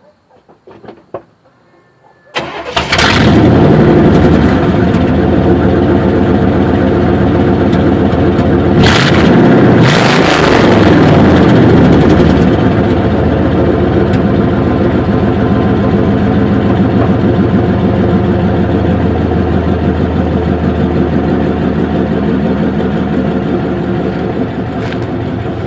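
1989 Chevrolet's 350 small-block V8 with throttle-body injection starting cold: it fires about two seconds in and runs at a steady fast idle. It is briefly revved about ten seconds in, then settles back to idle.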